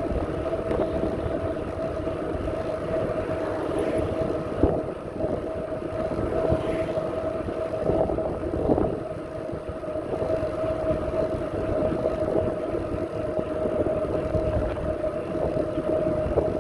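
Bicycle in motion: a steady whine over a rough rumble of tyres on the path, with a few brief louder bumps along the way.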